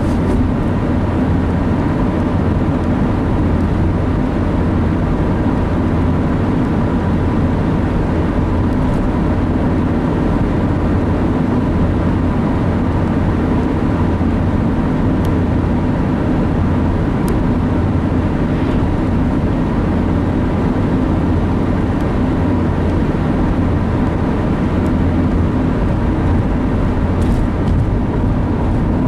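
Steady engine and road noise heard from inside a moving vehicle's cab, a low even rumble with no change in pace.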